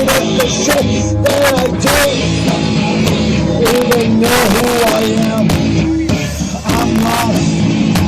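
Live rock band playing loud in a small venue: drums with frequent cymbal crashes, guitars, and a sung vocal line. The recording has a distorted, poor sound.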